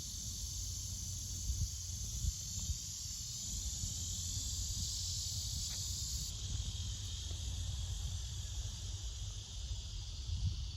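Steady high-pitched buzzing of an insect chorus in the woods, easing off a little about six seconds in, over a low rumble.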